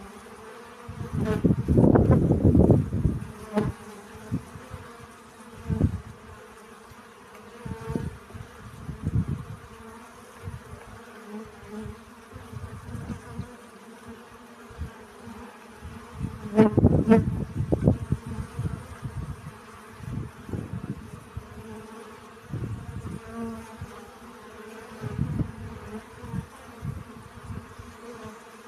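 Bees buzzing while foraging for pollen, a steady hum that swells loudly as a bee passes close, about two seconds in and again near seventeen seconds.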